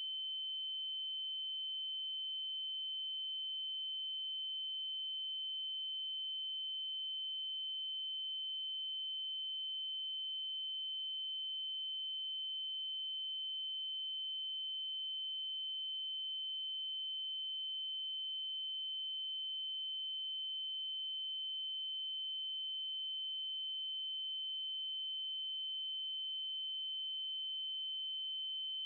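Steady synthesized 3072 Hz triangle-wave tone: a single high, unwavering pitch held without a break.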